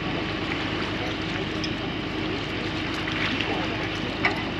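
Steady, unbroken background noise with a constant low hum running through it and a few brief faint voices.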